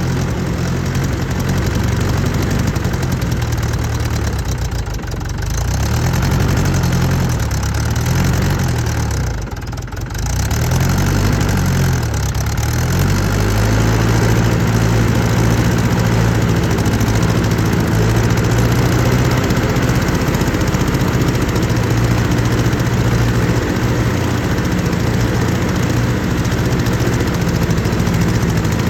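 Mahindra tractor's diesel engine running short of fuel. For the first dozen seconds its speed surges up and down, with two brief sags where it nearly stumbles. It then settles to a steadier run. The uneven running is a sign of fuel starvation as the diesel runs out.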